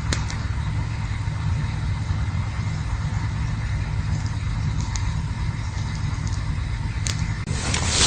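Campfire burning, with a steady low rumble under it and a few sharp crackling pops. A louder rushing hiss swells near the end.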